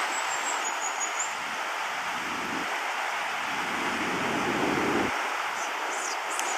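Steady wash of ocean surf. A thin high whistle sounds in the first second, and a few faint high chirps come near the end.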